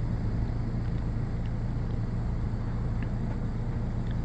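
A steady low mechanical hum that keeps an even pitch and level throughout.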